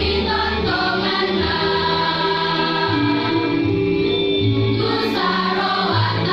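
A school choir singing in harmony, holding long notes that change about once a second.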